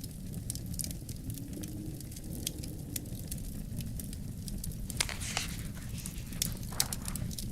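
Wood fire crackling in a fireplace: scattered sharp pops and snaps, with two louder pops about five seconds in and near the end. Under it runs a steady low rumble of wind.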